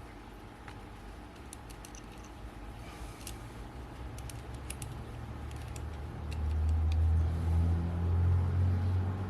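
Small metallic clicks and clinks of precision screwdrivers being picked up and worked against a tiny, very tight screw in a camera lens. From about six seconds in, a low rumble swells and becomes the loudest sound.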